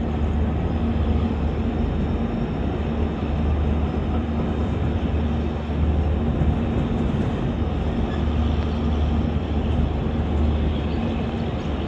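Passenger train running along the track, heard from an open coach door: a steady rumble of wheels and coaches with a low hum under it.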